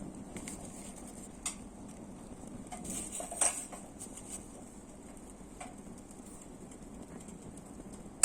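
Light metallic clicks and taps from a small frying pan on a thin folding steel fire stand, over a steady low background. A few scattered clicks, the clearest about a second and a half in and three and a half seconds in, and a loud sharp clack at the very end.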